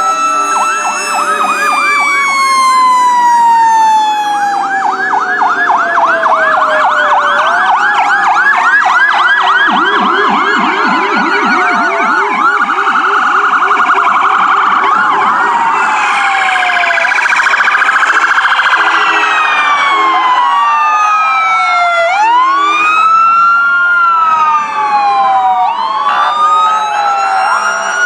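Several emergency vehicle sirens sounding at once and overlapping. A long slowly falling wail near the start gives way to fast yelp sweeps, then to wails rising and falling again near the end.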